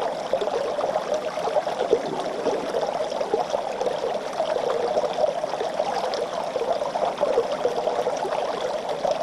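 A small stream running and babbling steadily over rocks.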